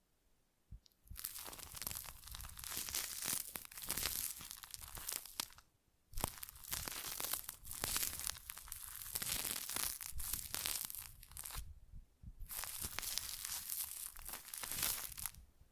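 Close-miked crinkling and scratching, in three long stretches with short pauses between them.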